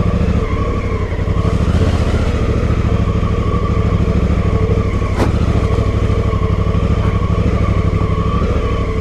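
2018 Honda Africa Twin's parallel-twin engine running steadily at low to moderate throttle while the motorcycle is ridden along a dirt trail. A single sharp click comes about five seconds in.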